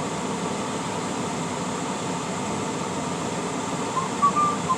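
Steady in-cab noise of a semi truck rolling slowly: a constant hum of engine and cab fan. A few short high-pitched chirps come in about four seconds in.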